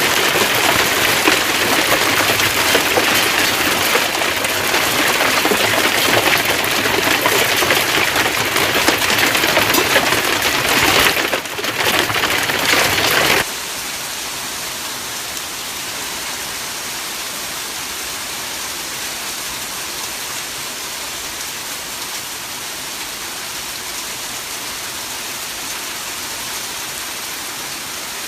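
Hail falling hard, a dense, steady patter of stones on surfaces. About halfway through it drops off abruptly to a quieter, even hiss.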